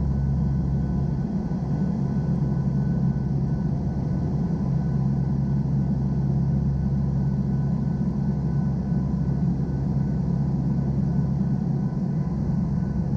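Engines of a NOAA Hurricane Hunter aircraft in flight, giving a steady low drone with a few thin, steady tones above it.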